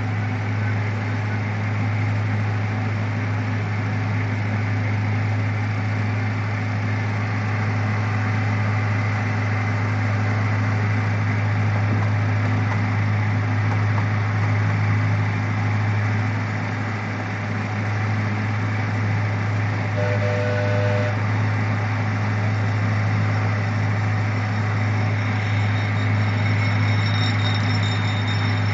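Zoo railroad train running steadily, its engine giving a constant low hum under a wash of running noise, heard from aboard. A brief faint tone sounds about two-thirds of the way through.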